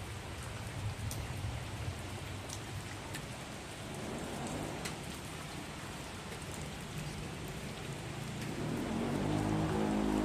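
Heavy rain falling steadily, with single drops ticking sharply here and there, over a low rumble that swells louder near the end.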